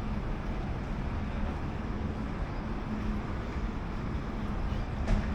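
City street ambience: a steady low rumble of passing traffic with a steady low hum. A single sharp click comes near the end.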